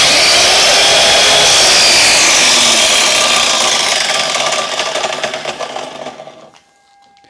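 Einhell TC-MS 2112 mitre saw's motor and blade running at full speed, then winding down and coasting to a stop over the last few seconds.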